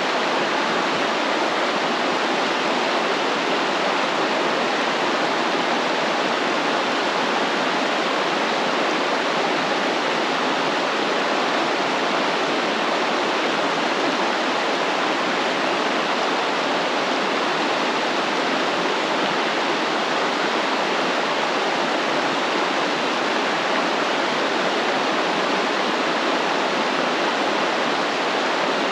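Stream water flowing and rushing steadily, an even unbroken wash of sound.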